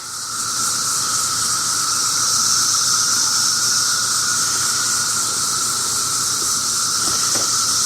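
A loud chorus of periodical (17-year) cicadas: a steady, unbroken drone with a higher hiss above it.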